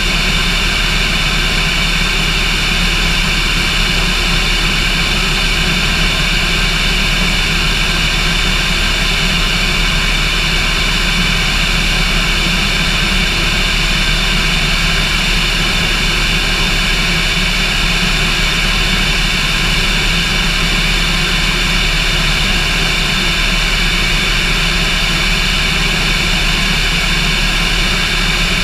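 Cessna light aircraft's piston engine and propeller droning steadily at a constant setting, loud and unchanging throughout.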